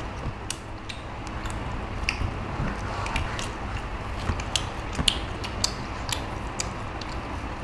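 Eating sounds of steamed chicken being chewed: irregular sharp clicks and smacks, several a second, over a steady low background rumble.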